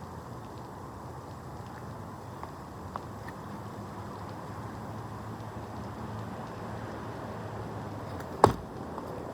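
Steady outdoor background rumble, with a small click about three seconds in and one sharp, loud knock near the end.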